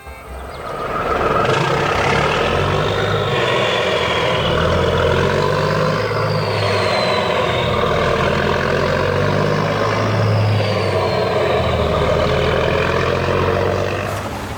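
Heavy vehicle engine running steadily, a deep rumble with a faint gliding whine above it. It swells up about a second in and fades out near the end.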